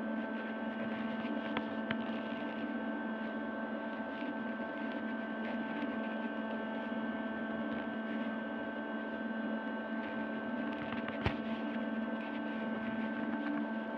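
A steady, unchanging hum made of several held tones, with one sharp click about eleven seconds in.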